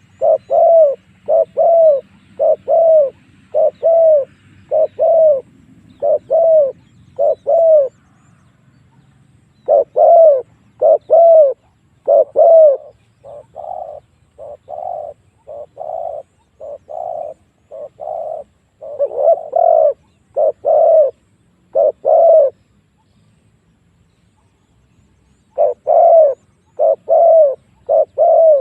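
Spotted dove cooing: a long series of short, arched coos, about one a second, in runs broken by pauses of two to three seconds.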